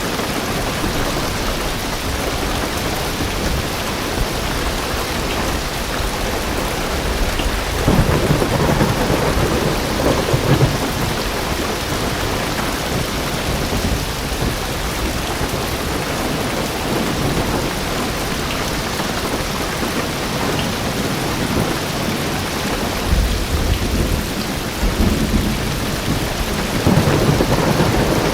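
Heavy rain drumming on a car's roof and windows, heard from inside the car. Thunder rumbles twice: once about a third of the way in and again near the end.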